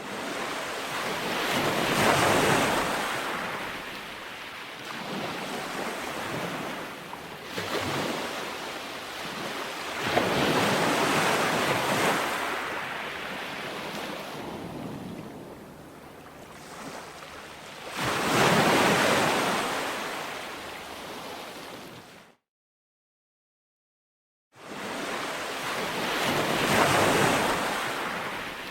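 Ocean waves breaking and rolling on a shore, swelling and falling away in surges every several seconds. The sound cuts out to complete silence for about two seconds near the end, then resumes.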